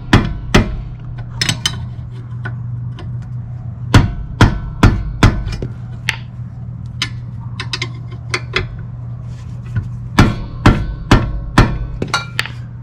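Repeated sharp knocks and metallic clanks of hand tools striking metal parts, in irregular clusters with short ringing after some strikes, over a steady low hum.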